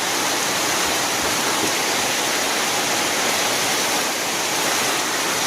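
Heavy monsoon rain pouring down: a dense, steady hiss of water with no let-up.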